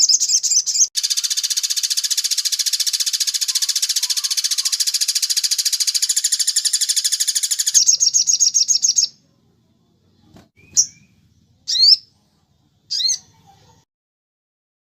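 Songbird trilling: high, very fast trills, one held unbroken for about seven seconds, which break off about nine seconds in. Three short, sharp chirps follow, a second apart.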